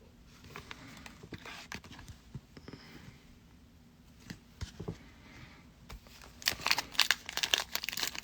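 Soft handling of trading cards with light clicks and slides, then from about six and a half seconds in, a trading-card pack wrapper being torn open and crinkled, getting louder.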